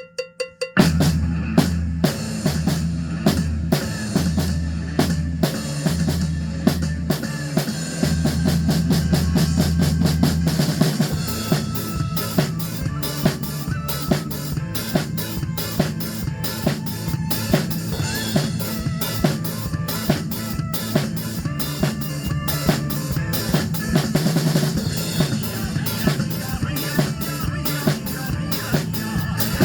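Drum kit played along to a fast, upbeat trot backing track, with bass drum and snare hits on a steady driving beat. A few quick clicks come at the very start before the band comes in.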